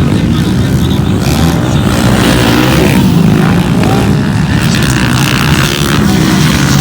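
Motocross motorcycle engines running hard, their pitch rising and falling as the riders work the throttle.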